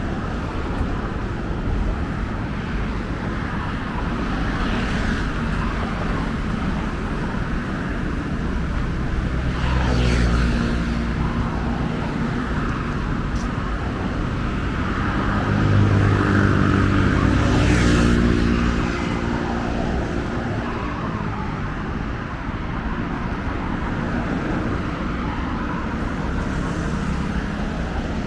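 Steady road-traffic noise from a busy street, with two vehicles passing close by: a brief louder one about a third of the way in and a longer, louder one just past the middle.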